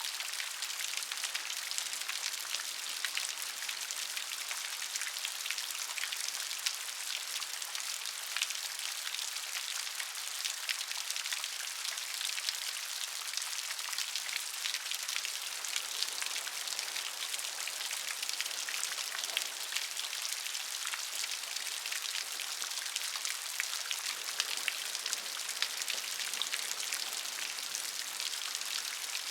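Steady rain falling on a surface, an even hiss thick with many small separate drop ticks.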